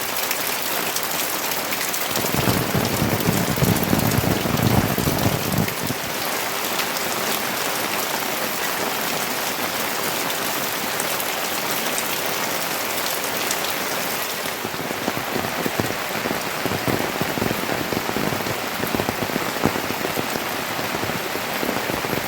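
Steady rainfall with many individual drops striking a surface, heavier and louder for a few seconds about two seconds in.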